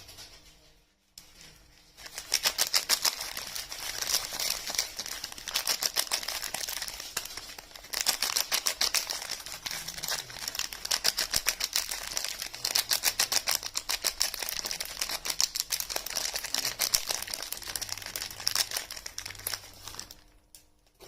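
Rapid, crisp crackling and crunching from soap and its wrapping being handled, in two long stretches with a short break about a third of the way through; it stops near the end.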